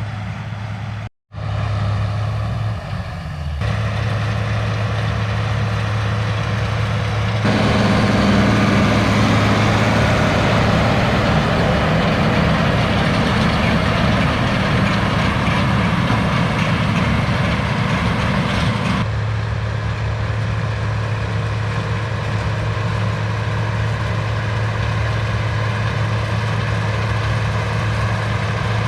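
International 1086 tractor's six-cylinder turbo diesel engine running steadily, with a brief dropout about a second in. The sound grows louder and noisier for about ten seconds in the middle, then settles back.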